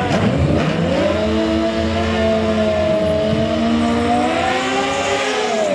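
Drag-racing motorcycle engine at full throttle: its pitch climbs quickly, holds high and creeps up for several seconds, then drops near the end as the throttle comes off.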